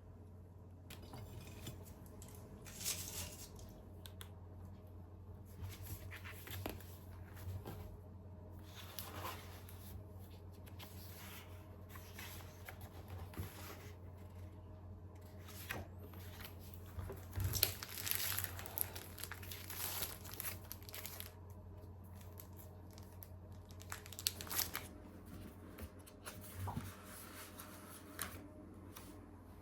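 Paper packaging being handled close by: irregular rustling, crinkling and tearing sounds, busiest and loudest around the middle and again a little later, over a low steady hum.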